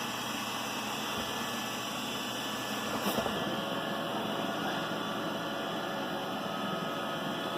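iRobot Roomba 960 robot vacuum running across carpet, a steady hiss with a faint hum from its vacuum motor and brushes, briefly a little louder about three seconds in.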